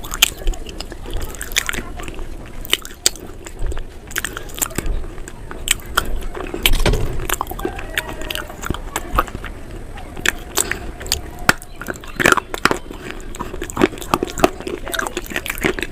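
Close-up crunching and chewing of crunchy food: an uneven run of sharp, crisp crunches, some single and some in quick clusters.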